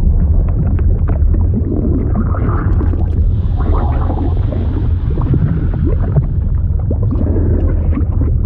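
A liquid sound effect: a steady deep rumble with many small pops scattered through it.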